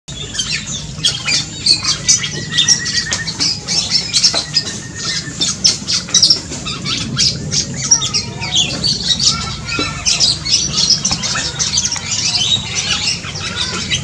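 Aviary birds calling in a busy, overlapping run of short, sharp squawks and chirps, the black-and-crimson oriole among them.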